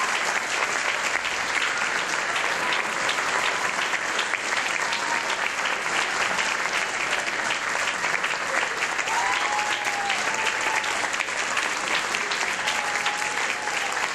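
Audience applauding steadily: many hands clapping in a dense, continuous patter.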